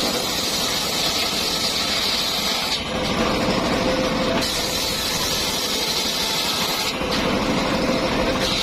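Circular sawmill running steadily. Its high whine drops out for about a second and a half near the middle, and again briefly near the end.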